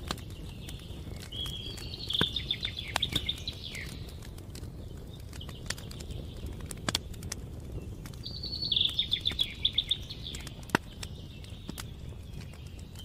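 Campfire crackling with scattered sharp pops over a steady low rush, while a songbird sings two fast trilled phrases, one about two seconds in and another about eight seconds in.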